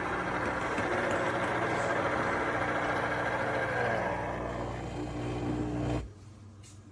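De'Longhi TrueBrew coffee maker's motor running with a steady whirr and low hum, cutting off sharply about six seconds in.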